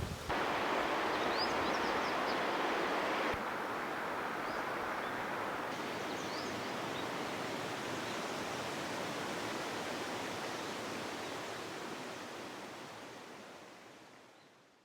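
Steady rushing of flowing river water, with a few short high bird chirps, fading out near the end.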